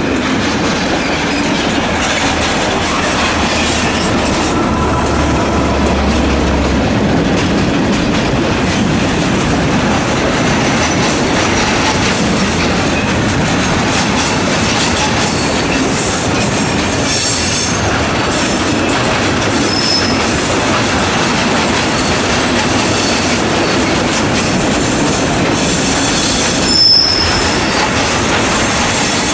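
Freight train wagons rolling past in a steady, loud rumble, with short high-pitched wheel squeals in the second half, the sharpest one near the end.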